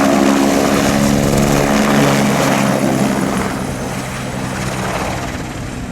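Propeller aircraft engine running, a steady drone over rushing air noise. The drone weakens about halfway through.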